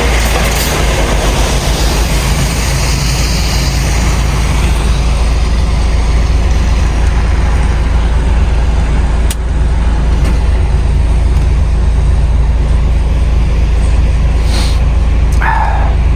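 DAF truck's diesel engine running with a steady low drone. A single sharp click comes about nine seconds in, and a brief higher tone near the end.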